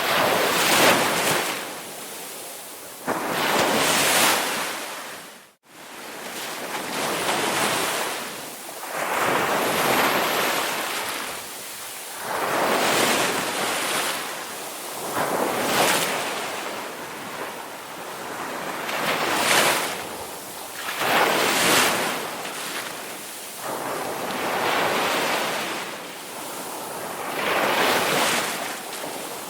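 Ocean waves breaking and washing up, the rushing surf swelling and fading about every three seconds. The sound cuts out for a split second about five and a half seconds in.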